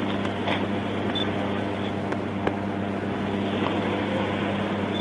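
A vehicle running steadily with a constant low hum and no change in pitch, with a few faint clicks.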